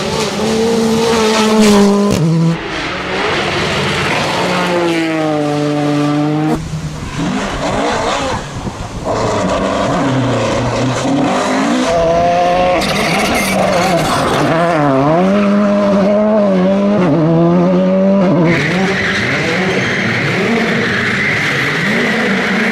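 Rally car engines revving hard, the pitch climbing and dropping again and again through gear changes and lifts, with tyre and skidding noise. The sound changes abruptly a few times as one car gives way to another.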